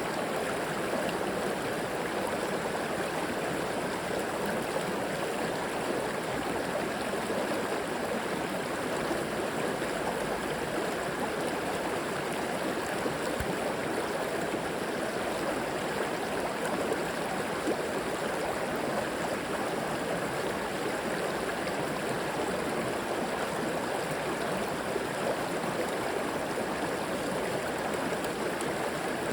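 A river flowing over rocks: steady rushing and gurgling water.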